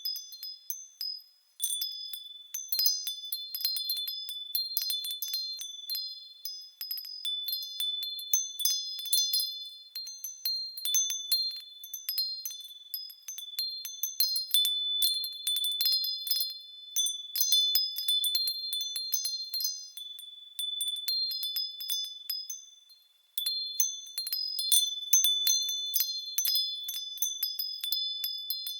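Japanese furin wind chimes ringing in the wind: clear, high tones struck irregularly and overlapping, with a brief lull about a second and a half in and another a little past two-thirds of the way through.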